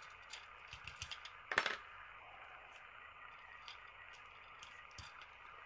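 Light clicks and taps of small hand tools being put down and picked up as a too-big screwdriver is swapped for a smaller precision screwdriver, with one louder clatter about a second and a half in and a sharp click near the end.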